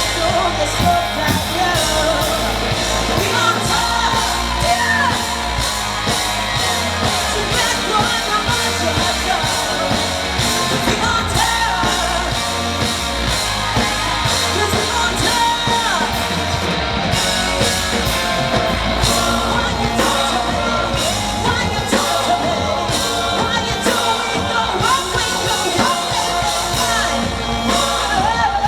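A live pop-rock song played loud over a concert sound system, with singing over a steady drum beat, recorded from the audience.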